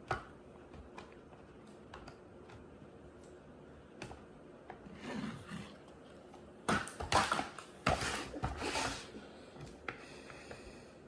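Cardboard and plastic toy packaging being handled and opened by hand: scattered clicks and taps, then a few louder scraping, rustling bursts from about five seconds in and again from about seven to nine seconds.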